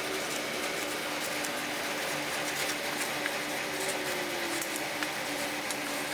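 Steady workshop background noise with a faint hum and a few light ticks.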